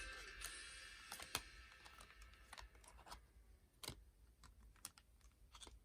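Faint, scattered sharp clicks and taps, about one or two a second, against near silence.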